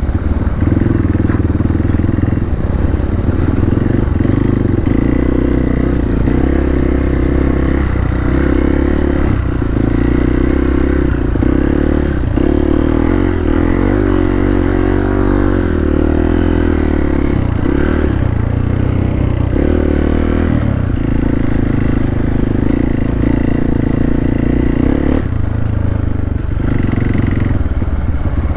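Hero Xpulse 200's single-cylinder engine running under load, the throttle opening and closing repeatedly as the motorcycle is ridden over a slippery off-road trail.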